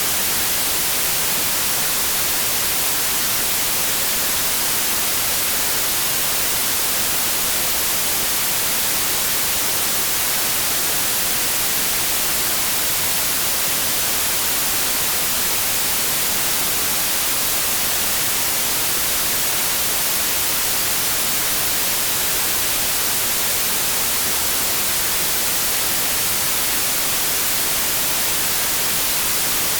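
Steady white noise: an even, unbroken hiss that is brightest in the treble, with no change throughout.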